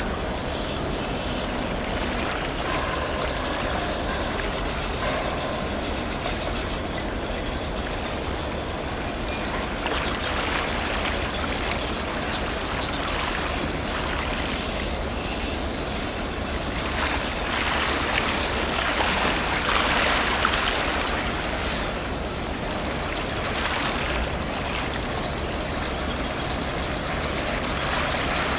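Container ship passing: a steady low engine rumble under a broad rushing of water from its wake, swelling a little about two-thirds of the way through.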